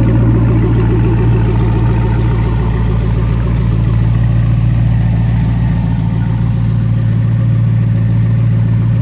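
Factory Five GTM's engine idling steadily after a cold start, an even, unchanging low hum.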